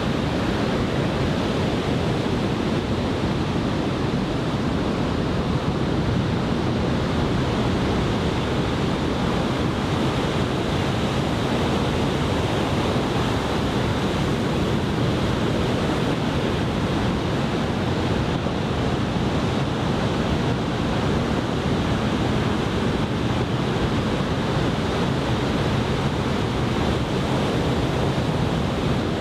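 Large typhoon-swell surf breaking, a steady wash of wave noise with wind buffeting the microphone.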